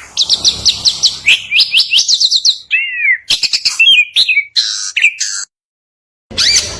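Songbird singing a fast, varied song: quick runs of rising whistled notes, about eight a second, then mixed chirps and trills. A short dead-silent break comes a little past the middle before the song starts again.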